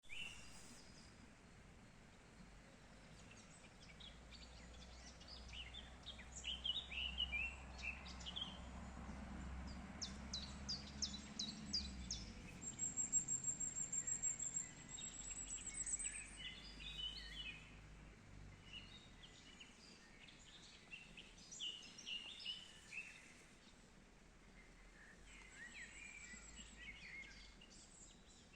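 Several birds chirping and singing in short trills over faint outdoor background noise, with a high thin rising whistle midway. A low rumble underneath stops about twelve seconds in.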